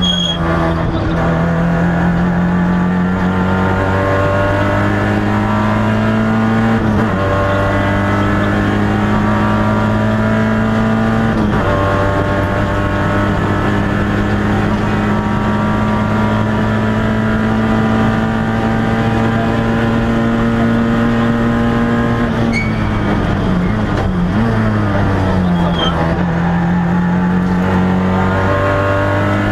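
Peugeot 106 XSi rally car's four-cylinder engine heard from inside the cabin, pulling hard through the gears on a special stage. The revs climb slowly in long pulls, with gear changes about seven and twelve seconds in. About three quarters of the way through the revs drop briefly, then climb again.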